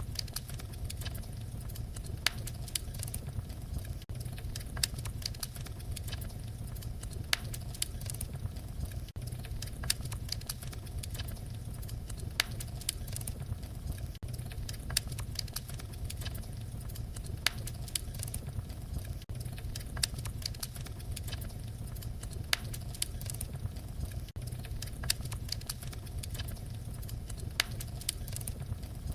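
Fireplace fire crackling: irregular sharp pops and snaps, a louder one every second or two, over a steady low rumble of the flames.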